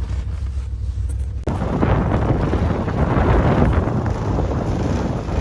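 A steady low rumble, then about a second and a half in a loud rush of wind buffeting the microphone cuts in and carries on.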